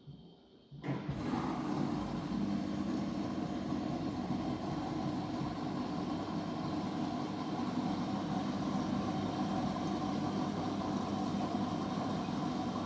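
Washing machine running with a steady motor and drum hum that starts abruptly about a second in.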